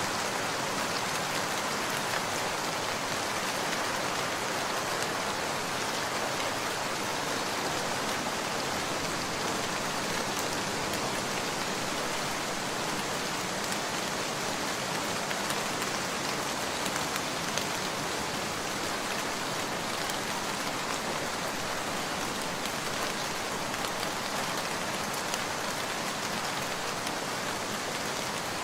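Steady rain falling, an even hiss with scattered drop ticks throughout.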